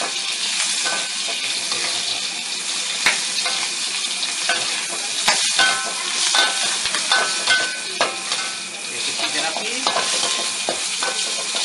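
Prawns sizzling in hot oil in a steel wok, with a metal ladle scraping and knocking against the wok as they are stirred. The sizzle is steady, and the ladle strokes come as frequent sharp clicks, some with a brief metallic ring.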